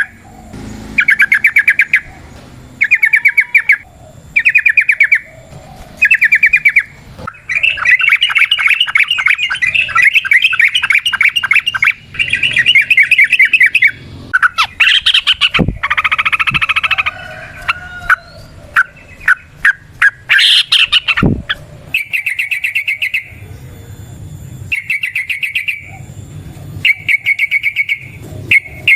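Yellow-vented bulbul (trucukan) calling in fast chattering trills. Short bursts of about a second repeat with pauses, with a longer run of rapid chatter a quarter of the way in, the long 'ropel' song used to lure other trucukan.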